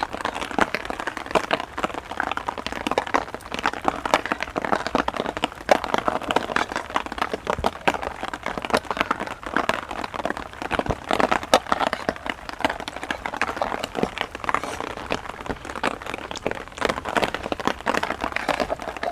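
Heavy rain falling, with a dense, steady crackle of drops striking close to the microphone.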